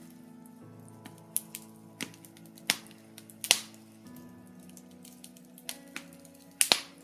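Wood fire in a fireplace crackling, with irregular sharp pops, the loudest about three and a half seconds in. Soft sustained background music plays underneath.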